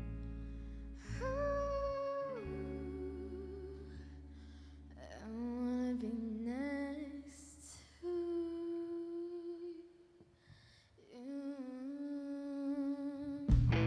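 A singer humming wordless held notes with vibrato over soft sustained guitar and bass chords. The full band with drums comes in loudly near the end.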